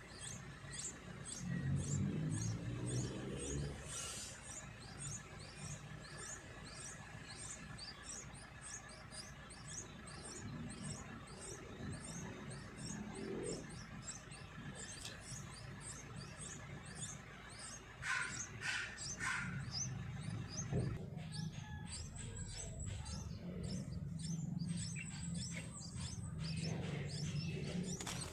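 Small birds chirping: thin, high, downward-sliding chirps repeated about twice a second, with three louder, lower call notes about two-thirds of the way through.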